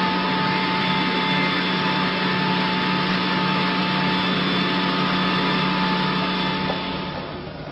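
Steady, loud engine-like machine noise with a hum and a few held tones, dropping off about seven seconds in.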